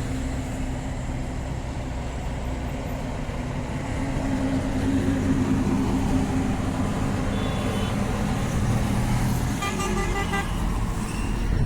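The diesel engine of a JCB Vibromax soil compactor runs steadily and grows louder about four seconds in. Near ten seconds a short high-pitched toot sounds over it.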